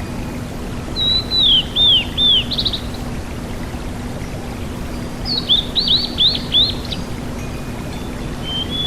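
Sulingan gunung (tledekan gunung) singing two short phrases of high whistled notes, each note sliding downward. The first phrase comes about a second in, the second after about five seconds. Both sit over a steady hiss and a low hum.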